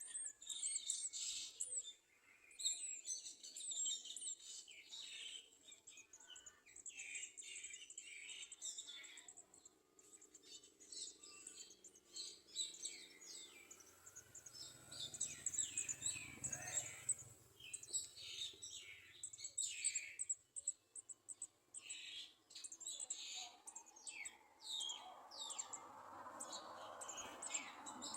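Garden sunbirds chirping: a steady run of short, high chirps and tweets, many overlapping. A faint low rumble comes in about halfway through, and a soft rushing noise near the end.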